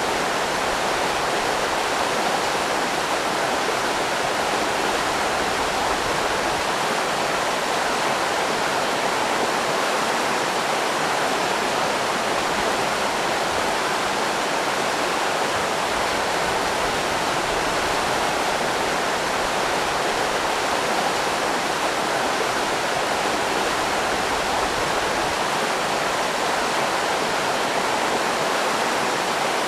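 River rapids rushing, a steady even noise of flowing water.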